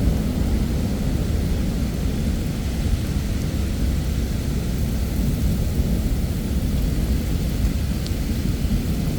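Thunderstorm: heavy rain falling under a steady, deep rumble of rolling thunder, with no sharp cracks.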